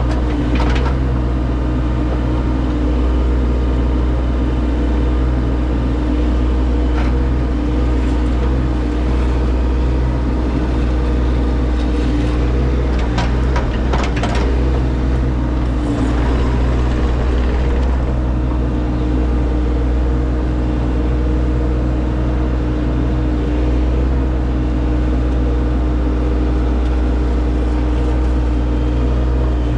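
Earthmoving machine's engine running steadily under load, heard from inside the cab, with occasional short knocks and clanks from the machine working as it strips sod and digs.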